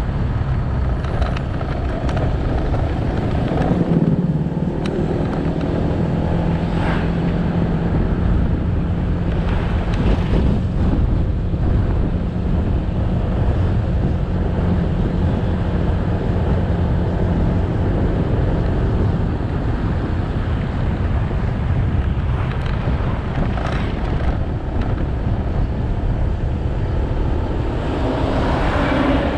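Motorbike engine running under way, with road noise and wind on the microphone. The engine note holds steady for several seconds, and there is a louder swell of sound near the end.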